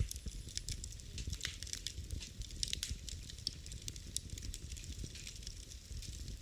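Wood fire in a fireplace crackling and popping, with many irregular sharp snaps over a low, steady rumble of the flames.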